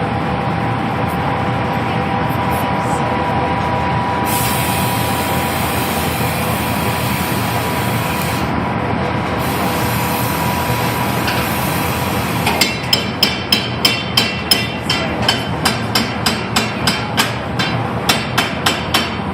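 Glassblowing workshop: a steady roar with a faint hum and a high hiss that comes and goes for several seconds. About two-thirds of the way in, a run of about twenty sharp taps, roughly three a second.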